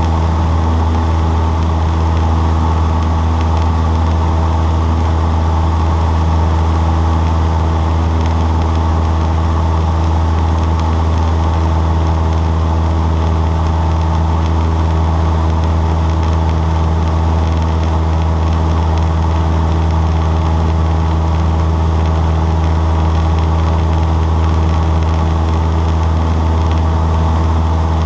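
Cessna 152's four-cylinder Lycoming O-235 engine and propeller running at a steady, unchanging speed, a constant low drone.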